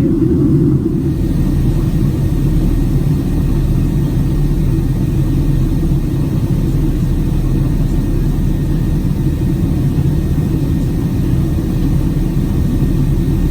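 Steady low rumble of a Boeing 767-300ER's engines and airflow heard from inside the economy cabin, with a faint hiss above it.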